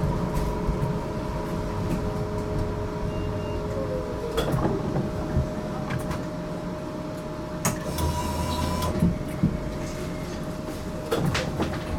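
Inside an HTM GTL8 tram on the move: steady electric whine and low rumble, with one whine tone falling away about four seconds in. Scattered sharp knocks and clunks from the running gear and car body.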